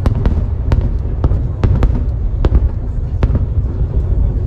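Aerial fireworks bursting: a rapid, irregular string of sharp cracks and bangs, about two a second, over a steady low rumble of continuous explosions.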